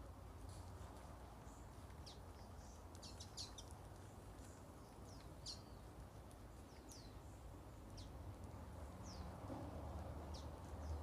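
Common waxbills calling: short, high, thin chirps, each sliding quickly downward, scattered irregularly with a tight cluster about three seconds in. A steady low background rumble lies beneath.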